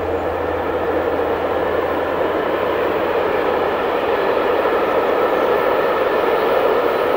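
Freight train approaching: steady running noise of the locomotive and wagons on the rails, slowly growing louder as it nears.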